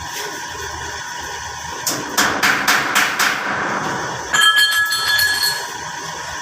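A quick run of about five metal clanks, then a louder metal strike that rings on for about a second, over a steady background hum.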